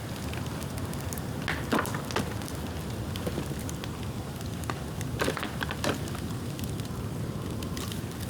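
Bonfire of dry, dead bamboo burning, crackling over a steady low rush, with a few sharp pops standing out.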